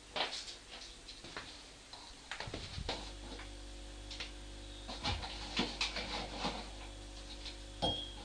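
Scattered light knocks and ticks at an uneven pace, with a steady low hum coming on about three seconds in.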